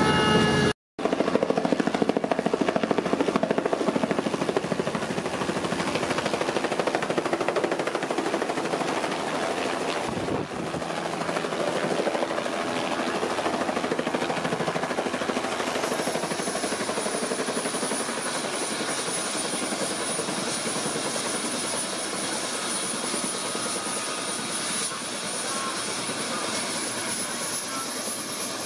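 Helicopter in flight: steady rotor and engine noise with a very high thin whine that drops slightly in pitch about halfway through. The sound cuts out for an instant about a second in.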